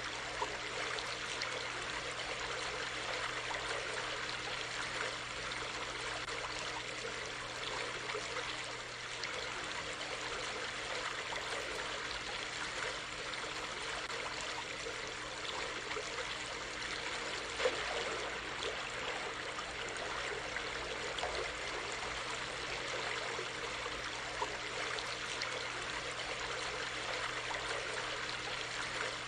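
A brook running steadily, its water trickling and splashing, with a few brief louder splashes.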